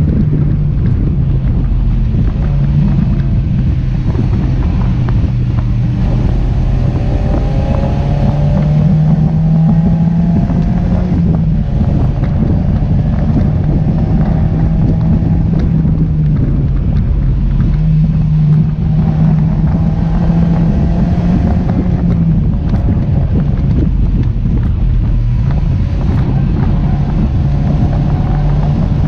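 Mazda MX-5 NC's four-cylinder engine running hard on track, with heavy wind noise on the microphone from the open roof. The engine note climbs in pitch several times as the car accelerates.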